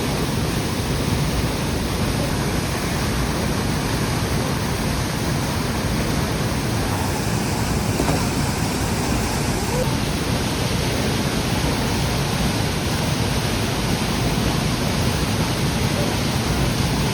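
Waterfall rushing, a steady, loud wash of falling water that stays even throughout.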